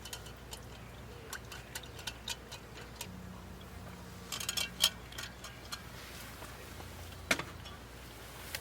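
Scattered light clicks and taps of small objects being handled, with a quick cluster about halfway through and one sharper knock near the end.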